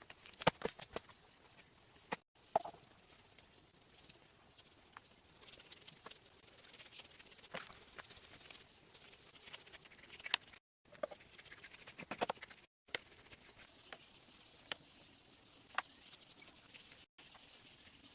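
Scattered sharp taps and knocks, some in quick clusters, over a faint outdoor hiss, broken by four brief moments of total silence.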